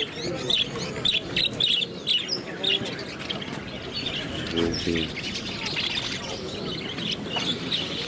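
Many small birds chirping in quick, short, overlapping chirps, with a voice talking briefly in the background about halfway through.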